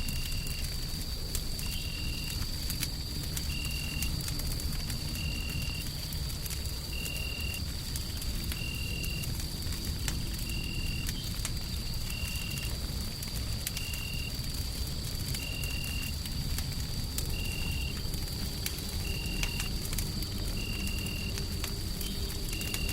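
Wood fire crackling with scattered small pops over a steady low rumble of white noise, with a faint steady high whine and a short high chirp repeating about every second and a half.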